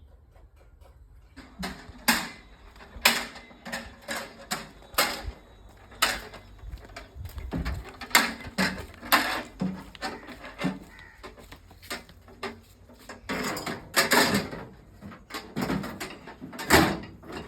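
Irregular knocks and clatter of hand tools and parts being handled during tractor repair work. They start about a second and a half in and come one or two a second, some much louder than others.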